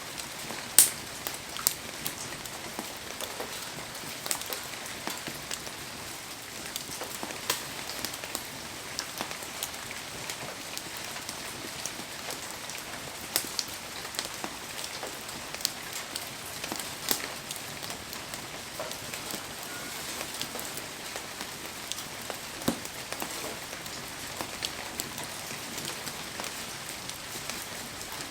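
Heavy rain falling steadily, an even hiss with many scattered sharp ticks and pops, one louder pop about a second in.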